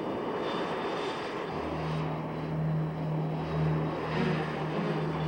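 Carrier aircraft engines running on the flight deck: a steady rushing noise, joined about a second and a half in by a steady low hum.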